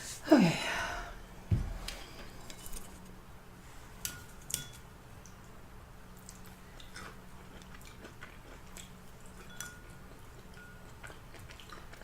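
Close-up eating sounds: chewing with scattered small wet clicks and smacks of the mouth. There is a dull thump about a second and a half in.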